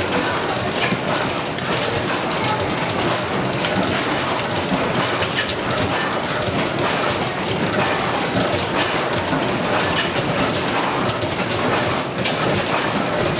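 Large stationary engine machinery running, a steady mechanical clatter made of many small clicks.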